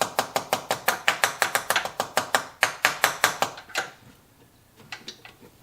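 Rapid hard tapping on a dirt bike's carburetor, about six taps a second for nearly four seconds, then a few more taps near the end: knocking the carb to free its stuck floats.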